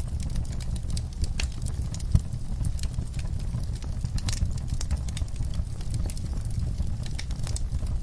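Wood fire burning in a fireplace, crackling with irregular sharp pops and snaps over a low steady rumble of the flames; one louder pop about two seconds in.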